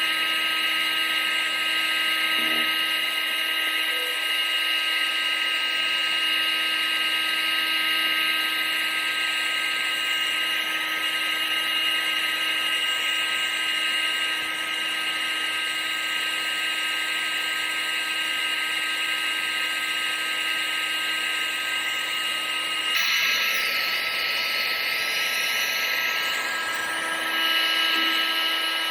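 Vacuum cleaner motor running steadily, a constant whine over a rushing hiss of air. The tone changes abruptly about 23 seconds in, and again shortly before the end.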